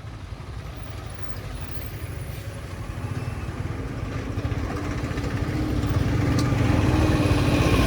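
A motor vehicle's engine running, growing steadily louder throughout.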